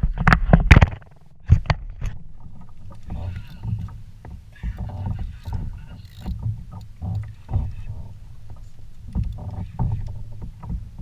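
Water slapping and sloshing against a kayak hull, with frequent short knocks and bumps on the hull; a cluster of loud thumps comes in the first second.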